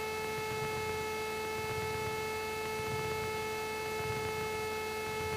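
Steady electrical whine with a ladder of overtones in the Cessna 172's intercom audio, over a faint low rumble from the idling engine.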